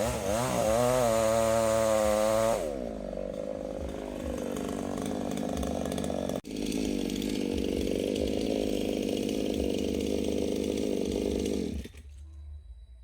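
Chainsaw running at high revs for a couple of seconds, then dropping to a lower steady run, and cutting off suddenly near the end.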